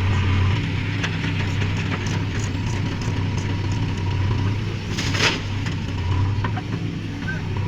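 Heavy diesel machinery engine running steadily with a low hum, with a short rush of noise about five seconds in.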